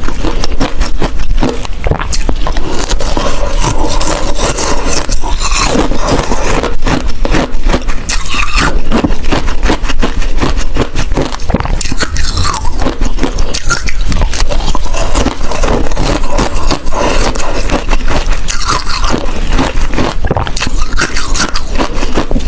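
Close-miked ice eating: a person biting and chewing ice, a dense continuous run of loud crunching and cracking with no pauses.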